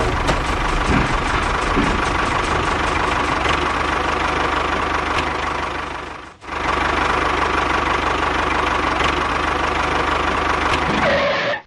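A small engine running steadily with a fast knocking rattle. It fades out briefly about six seconds in and comes back, then stops just before the end.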